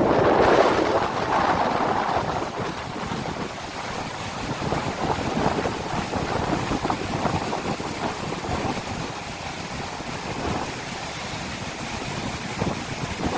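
Strong wind buffeting the microphone over the rush of rough sea surf, loudest in the first couple of seconds.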